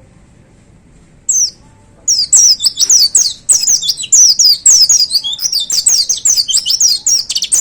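Caged white-eye (pleci) singing loudly. A single high, falling chirp comes about a second in, then a rapid, unbroken run of quick falling chirps from about two seconds in, the fast 'shooting' (tembakan) burst that keepers prize, which cuts off suddenly.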